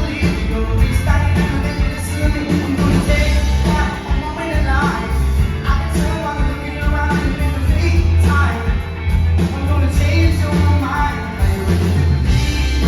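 Live rock band playing loud, with a sustained heavy bass line, drums and guitars, and some singing.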